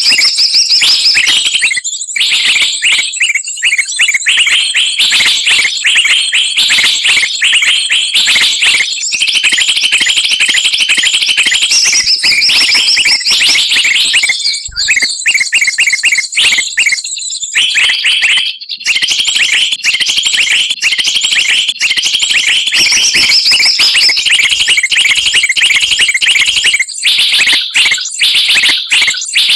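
A bird-lure recording: a loud, dense chorus of many small songbirds calling at once, with rapid high chirps and trills that run on almost without a break.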